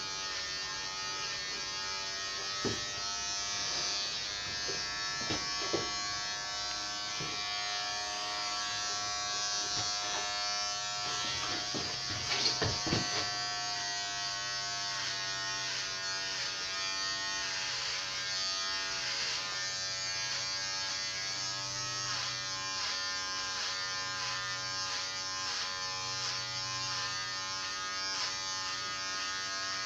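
Electric hair clippers running steadily, their hum wavering slightly in pitch, with a few sharp clicks and knocks, the loudest cluster about twelve seconds in.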